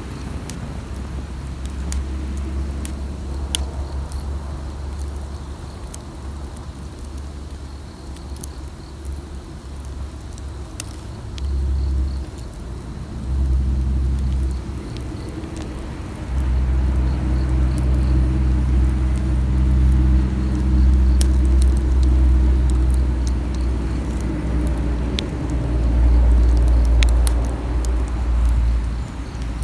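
Wood campfire crackling, with sparse sharp pops and snaps scattered through. Under it runs a loud, steady low rumble with a faint hum, which swells about twelve seconds in and grows louder from about sixteen seconds on.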